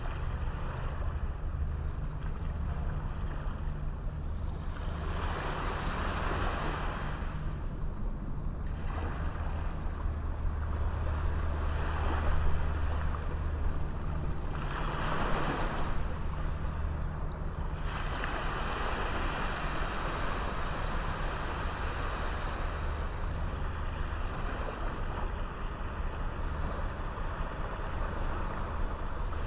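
Sea waves breaking and washing up on a small beach, swelling and easing several times, over a steady low rumble.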